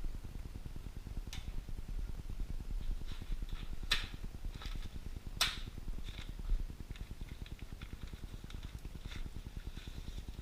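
Steady low rumble with a few sharp clicks and lighter ticks scattered through: hands working the winch wiring harness and its fasteners.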